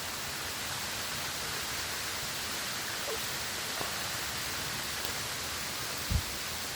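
Steady, even rushing noise with no pitch, with a brief low thump about six seconds in.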